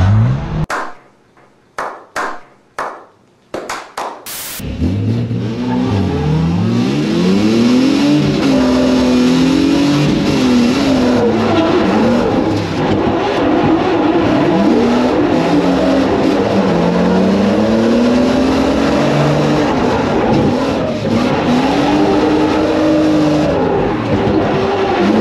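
A car engine revving hard on a race track, its pitch climbing and dropping again and again through gear changes and braking. It comes in about four seconds in, after a near-quiet gap broken by a few short, sharp bursts.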